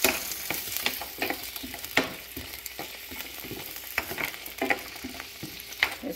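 Baby carrots sizzling in hot olive oil in a non-stick frying pan, with a steady hiss. A spatula stirring them knocks and scrapes against the pan with short clicks every half second to second.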